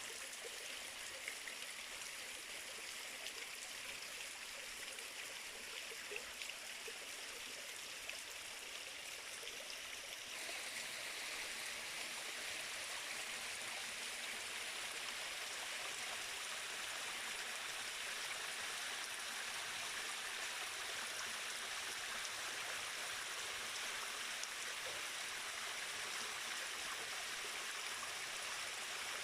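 Stream water rushing in a strong flow, a steady noise with no pauses, becoming a little louder and brighter about ten seconds in.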